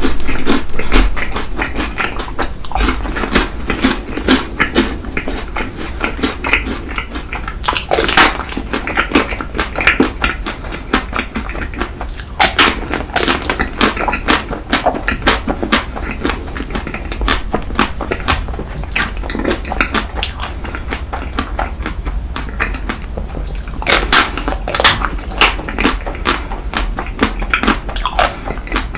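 Close-miked mukbang eating: a person biting and chewing ice cream cake and other sweets, with a dense run of wet mouth clicks and smacks and louder bursts about 8, 12 and 24 seconds in.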